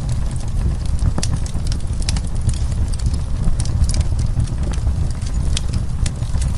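Wood fire crackling: many irregular sharp pops and snaps over a steady low rumble of the burning logs.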